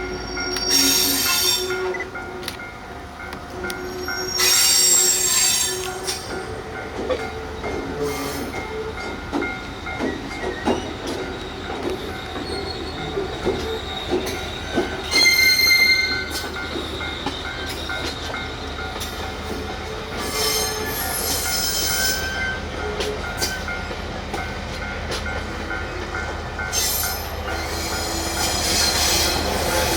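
Railway wheels squealing against the rails as rolling stock moves, with high-pitched squeals flaring up every few seconds over a steady rolling noise.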